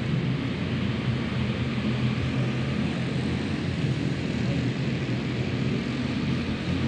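Racing karts' small engines droning steadily as the pack laps the dirt track.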